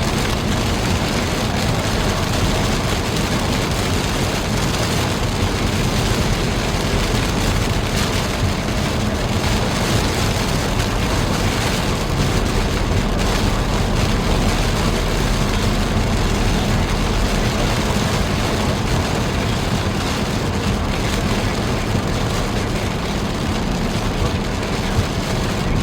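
Steady road and engine noise of a car driving at highway speed, heard from inside the car.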